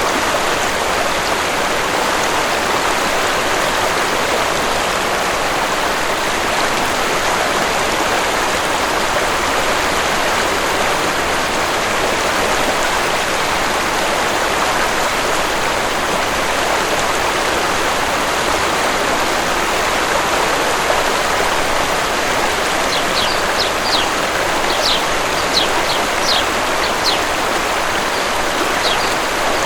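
Waterfall's steady, even rush of falling water. In the last several seconds a bird adds a run of short, high chirps over it.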